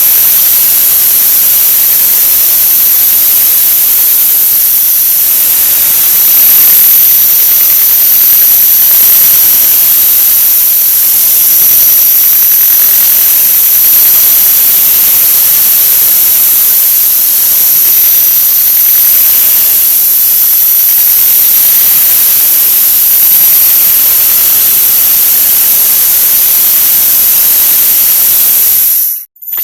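A 'wah wah' sound effect sped up so far that it has become a loud, steady hiss with a high whine on top. It cuts out for a moment near the end.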